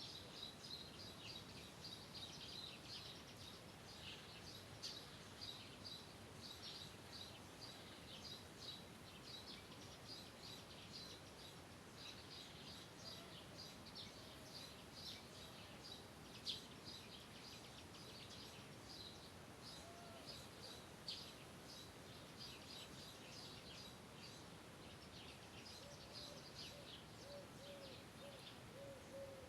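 Faint birdsong: many small birds chirping with short, high notes throughout, over a steady low hiss. A low, repeated hooting call sounds briefly at the start and again near the end.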